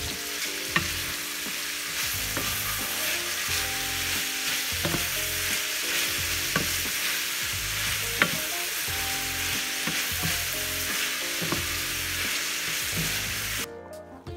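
Ethiopian kale, onions and peppers sizzling in olive oil in a stainless steel skillet as a wooden spoon stirs them, with a few sharp knocks of the spoon against the pan. The sizzle cuts off suddenly near the end.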